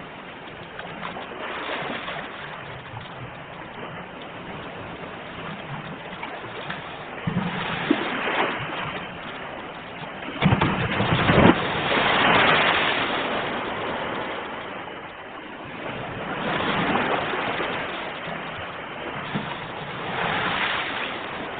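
Sea waves breaking on a shore: surf swells up and washes back every few seconds, with the biggest wave breaking a little under halfway through.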